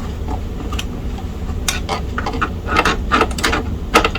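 Torx screwdriver tip clicking and tapping against a small screw and the metal chassis of a laptop, as the bit fails to seat because it is the wrong size. About seven light, irregular clicks, with a steady low hum underneath.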